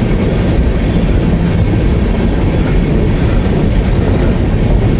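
Freight train cars rolling steadily past close by: the continuous noise of steel wheels running on the rails.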